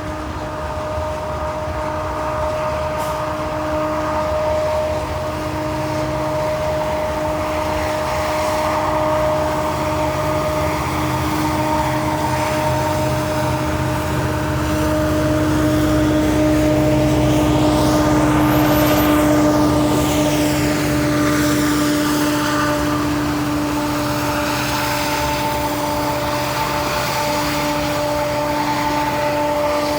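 Train passing, a steady droning tone with a rushing noise that swells to its loudest a little past the middle and then eases.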